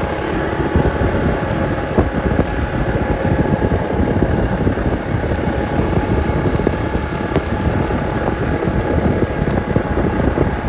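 Motorcycle engine running steadily while riding, with wind on the microphone and a few short knocks from bumps in the road.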